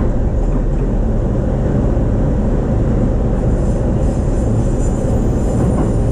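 E233 series electric commuter train running along the line, heard from inside the carriage: a steady rumble of wheels on rails and running gear. A faint high whine joins about halfway through.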